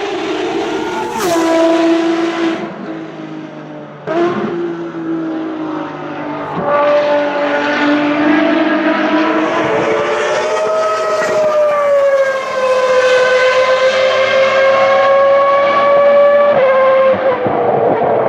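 High-revving Ferrari racing-car engines at full throttle, cars passing one after another, their pitch climbing and dropping with the gear changes. Near the end a long held note stops suddenly as the throttle shuts or a gear changes.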